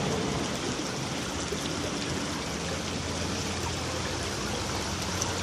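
Water flowing steadily, a continuous even rush.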